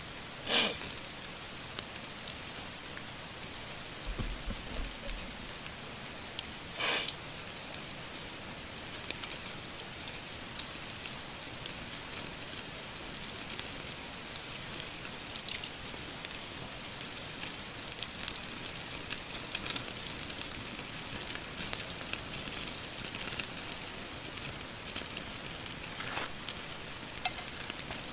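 Pork belly sizzling steadily on a grill over a campfire, with many small crackles and spits.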